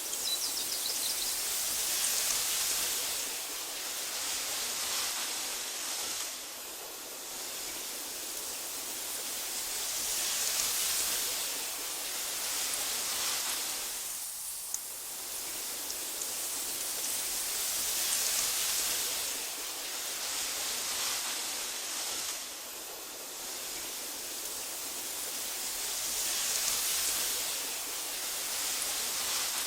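Wind blowing through tall meadow grass: a soft, hissy rustle that swells and eases in slow gusts.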